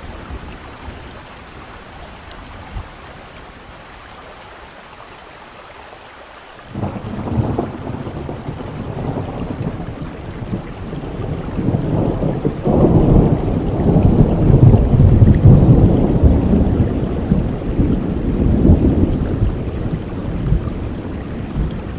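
Steady rain falling, then a long roll of thunder that breaks in suddenly about a third of the way in, swells to its loudest in the middle and slowly dies away toward the end.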